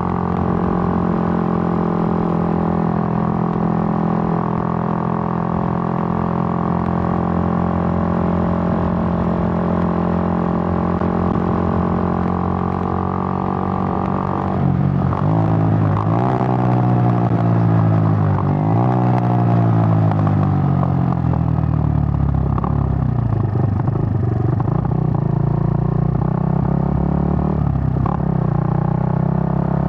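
Suzuki GN125's single-cylinder four-stroke engine running under way at steady revs. About halfway through, the revs fall and rise several times, settle lower for a while, then climb again near the end.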